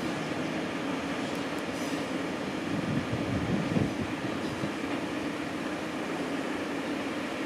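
Electric passenger train running through the station: a steady rail rumble with a constant low hum, swelling slightly about three and a half seconds in.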